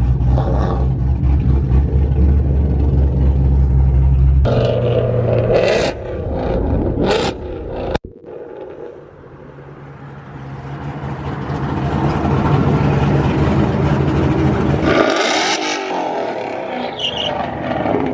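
Ford Mustang car engine running loud with a steady low rumble as it pulls out, then, after a sudden break about eight seconds in, engine noise building again as the car accelerates on the road ahead.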